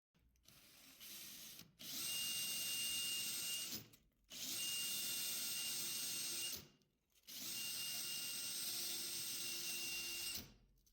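A small electric drill runs in three bursts of two to three seconds each, spinning up and winding down every time, with a steady rasping hiss of fine 240-grit abrasive on a starter motor's commutator as it is cleaned.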